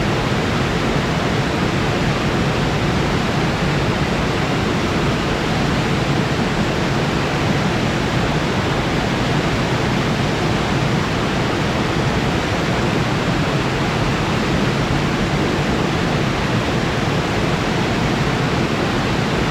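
A waterfall's falling water, a steady, even rush.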